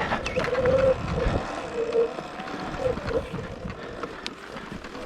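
Sur-Ron electric dirt bike ridden over rough, rocky trail: the motor's whine rises in short bursts with the throttle, over a clatter of knocks from the bike and wind on the microphone.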